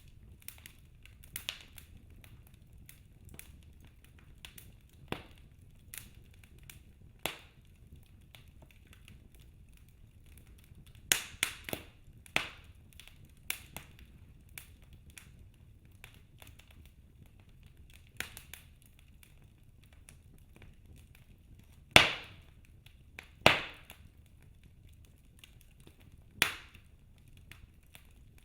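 Wood fire in a fireplace crackling, with scattered sharp pops at irregular intervals over a faint low rumble; the three loudest pops come in the last third.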